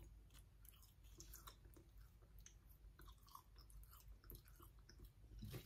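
Faint, soft chewing of a sticky, chewy dark toffee peanut bar, with scattered small wet mouth clicks.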